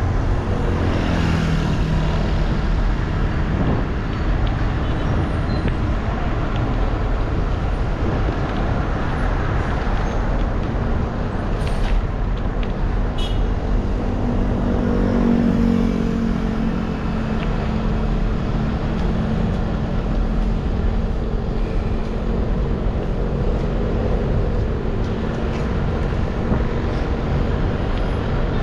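Road traffic over a steady rumble and hiss: motor vehicles passing, one with its pitch falling in the first couple of seconds as it goes by, and another engine rising and fading about halfway through.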